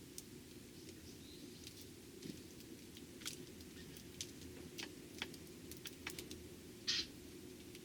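Eurasian tree sparrows feeding: irregular light clicks and taps, several a second at times, with one short, louder chirp-like sound near the end, over a steady low hum.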